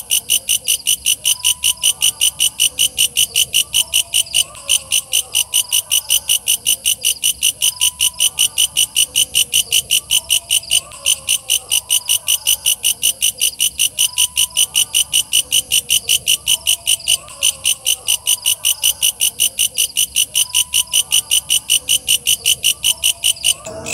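Walang kecek katydid calling: loud, very regular rasping pulses at about four a second, with fainter lower calls underneath. The pulsing breaks off just before the end.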